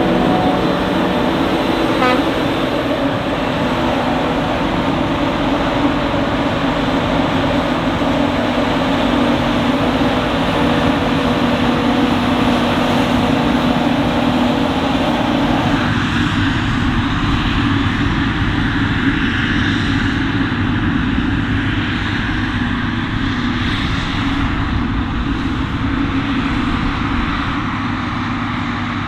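Heavy maize-harvesting machinery running steadily: a forage harvester and tractors at work. About sixteen seconds in, the middle-pitched hum drops away and a deeper rumble takes over.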